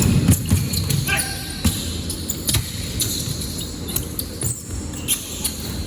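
Basketball game: the ball bouncing on the court in repeated sharp knocks, with short squeaks and a background of players' and spectators' voices.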